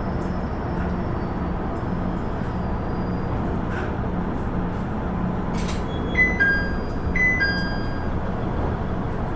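KiHa 110-series diesel railcar heard from inside while running: a steady rumble of engine and wheels on rail. About six seconds in, a two-note descending chime sounds twice, the onboard signal that comes before an announcement.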